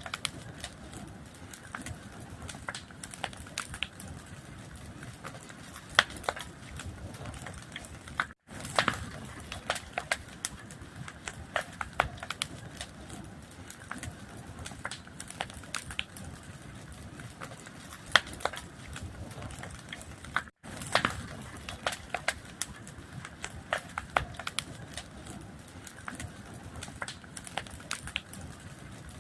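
Fire crackling, with irregular sharp pops and snaps over a steady low rush. The sound cuts out completely for a split second twice, about twelve seconds apart.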